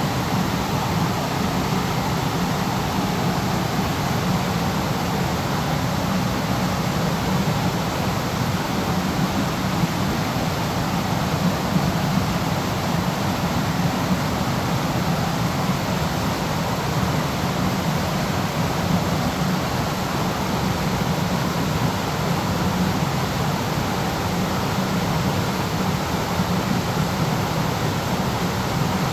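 Waterfall: water falling and splashing in an even, steady rush.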